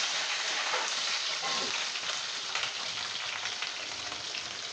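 Chopped green bell pepper pieces sizzling as they fry in hot oil in a kadai, a steady hiss that eases off slightly over the seconds.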